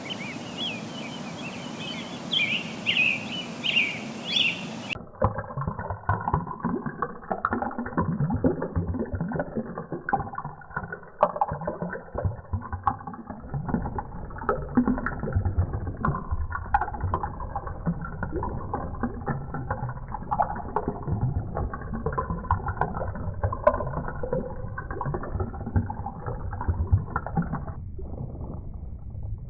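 Small birds chirping for about five seconds, then a cut to a dense, muffled sound of churning, splashing water with many small knocks.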